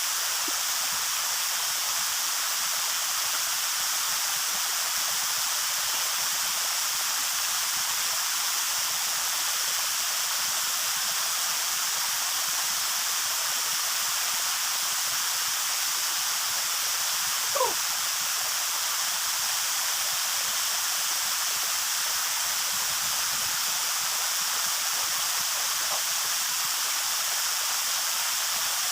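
Waterfall water rushing, a steady, unbroken hiss. About two-thirds of the way through, one brief high sound cuts in over it.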